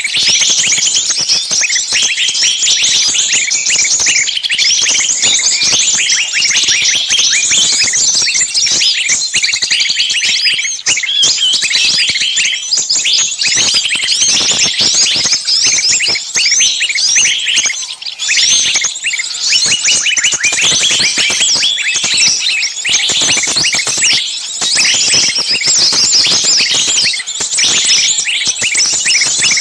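Many small birds chirping and chattering at once in a dense, unbroken chorus of quick high chirps.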